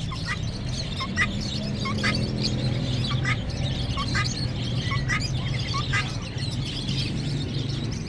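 Many caged small birds chirping, short high chirps coming several times a second, over a steady low hum.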